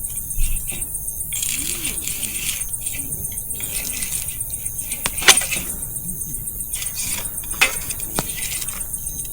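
Wood fire burning in a fire pit, the firewood crackling with a few sharp pops, the loudest about five seconds in and two more near the end. A steady high chirring of insects runs underneath.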